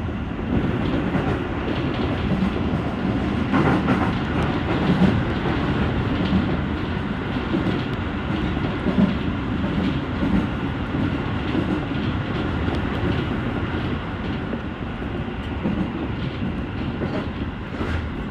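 Toei Shinjuku Line electric train running, heard from on board at the front: a steady rumble of wheels on rail with occasional clicks from the rail joints.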